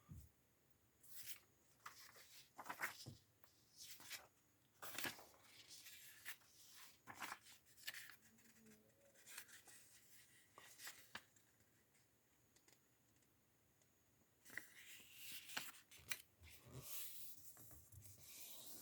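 Sheet of origami paper being folded and creased by hand: faint, intermittent rustles and scrapes, with a pause of a few seconds about two-thirds of the way through.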